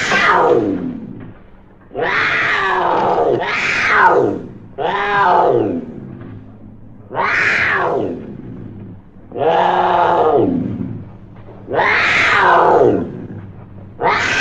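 Custom animal sound effect made to stand for a hamster: a run of about eight loud meow-like calls, each about a second long and falling in pitch, with short gaps between them.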